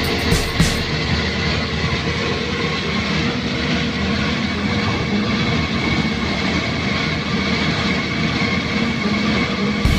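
Sumitomo SH210 excavator's diesel engine running steadily under work, a constant mechanical drone.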